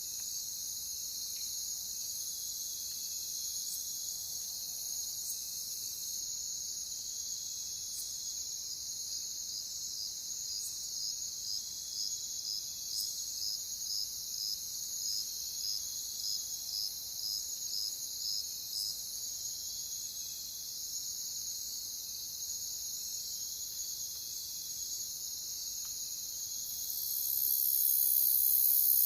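Crickets chirring in a steady chorus, with one chirping in an even pulse of under two chirps a second through the middle stretch. A higher-pitched trill swells louder near the end.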